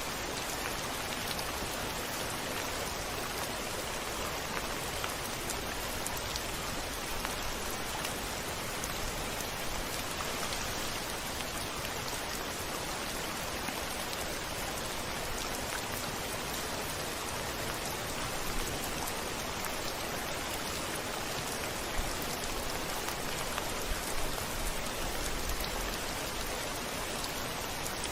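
Steady rain falling, a dense even hiss with individual drops ticking through it. A few louder drop hits come in the second half, with a brief low rumble a little before the end.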